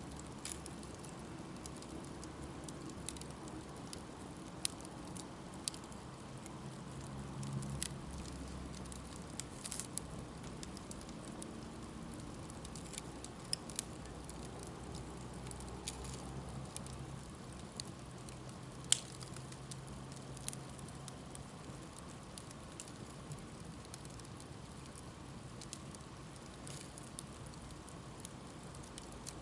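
Campfire burning with a steady low hiss and scattered sharp crackles and pops of burning wood, one louder pop a little past halfway.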